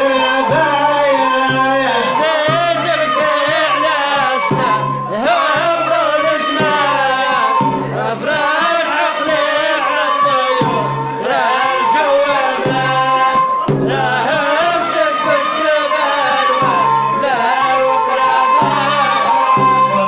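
Moroccan malhun ensemble playing an instrumental passage: bowed and plucked strings carry a wavering melody over a steady hand-drum rhythm of about two strokes a second.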